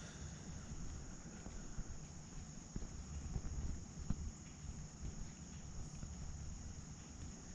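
Faint footsteps and handling noise as a person walks along the pond bank, with a couple of light knocks a few seconds in, under a steady high-pitched drone.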